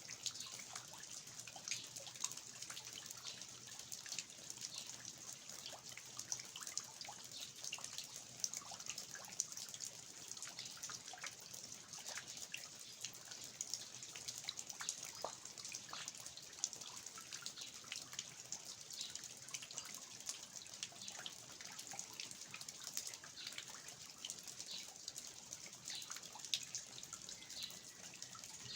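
Steady rain with eaves-drip: a dense, irregular patter of drops falling from a roof's eaves onto the ground, over a soft hiss of rainfall.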